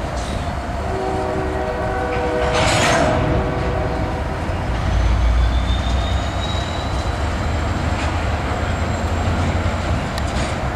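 Freight train of covered hopper cars rolling past, with a diesel horn chord sounding for the first few seconds. Then the low rumble of Canadian Pacific diesel locomotives builds as they draw near, with a faint high wheel squeal over it.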